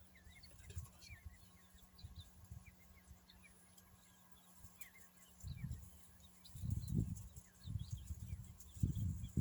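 Birds calling in short, faint chirps, repeated over and over. Low rumbling bumps come in about halfway through and grow louder near the end.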